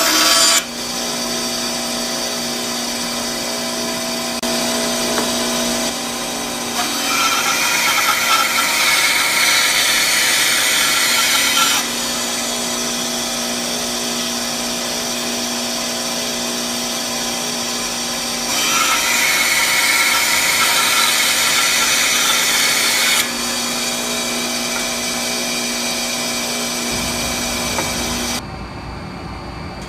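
Rikon 10-305 10-inch bandsaw running, with two cutting passes through wood, each lasting about five seconds. Between the passes the motor runs with a steady hum. Near the end the saw's sound drops away and a lower rumble remains.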